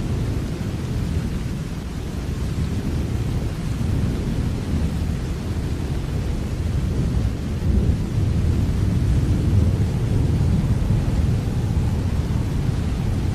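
Steady rain with a deep, low rumble under it and only a faint hiss on top, getting a little louder about eight seconds in.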